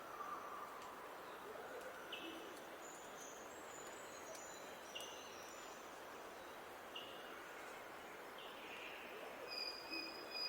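Wild birds calling over a steady outdoor hiss. One short call repeats every two to three seconds, with thin, higher notes between and a longer high note near the end.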